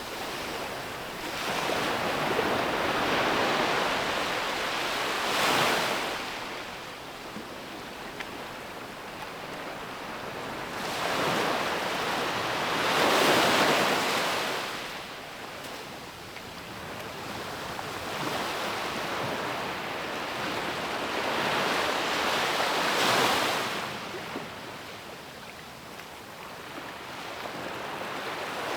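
Ocean waves breaking on a beach: three swells of surf about eight to ten seconds apart, each building up and then washing back, the loudest about halfway through.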